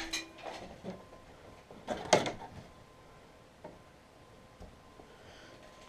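Handling noise at a power outlet as a plug is pulled out and a cord handled: a few light knocks, with a sharper clatter about two seconds in.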